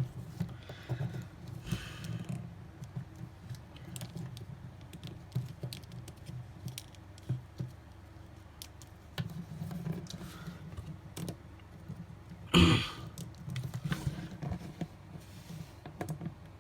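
Plastic action figure being handled and posed by hand: scattered small clicks, taps and rustles of its joints and sword, with one brief louder sound about three-quarters of the way through.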